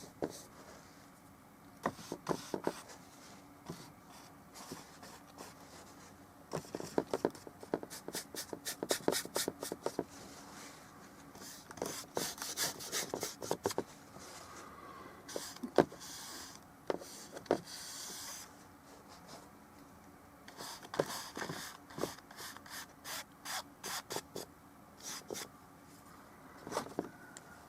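Paintbrush working oil paint onto the painting surface: clusters of quick, short strokes and dabs with brief pauses between them.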